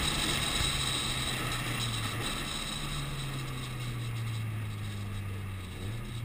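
Subaru Impreza WRX STI's turbocharged flat-four engine heard from inside the cabin, holding a steady low note that sags slowly, with a short rise near the end.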